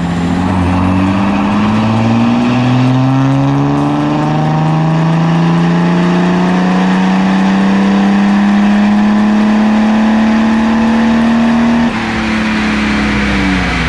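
BMW E60 5 Series turbodiesel doing a full-throttle pull on a chassis dynamometer: the engine note climbs steadily in pitch for about twelve seconds as the revs rise. Near the end the throttle is lifted, the sound drops suddenly, and the revs fall away.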